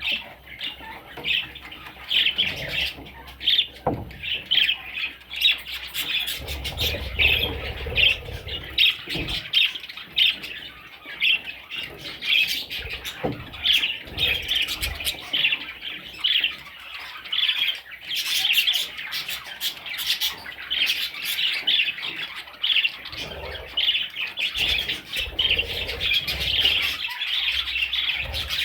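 Budgerigars chattering and chirping without pause, a dense stream of quick, high squawky notes, with a few short knocks mixed in.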